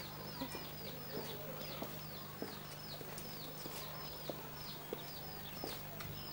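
Birds chirping: a steady run of short, high, falling chirps, about three a second, over a steady low hum, with a few faint knocks.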